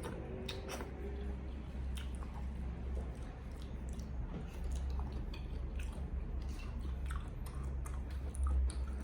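A person chewing food close to the microphone, with scattered small wet clicks and smacks of the mouth, over a steady low hum.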